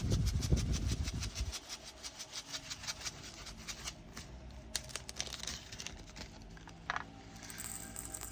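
Tiny plastic diamond painting drills rattling and clicking as they are poured and tapped out of a bag into a storage container, a rapid run of small clicks.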